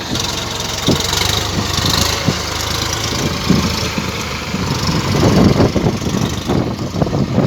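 Tractor engine running steadily as it pushes a dozer blade leveling soil, with scattered short knocks, getting louder about five seconds in.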